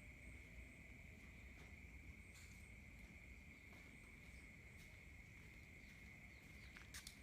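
Faint, steady high-pitched trill of a cricket, unbroken throughout, with a few faint clicks near the end.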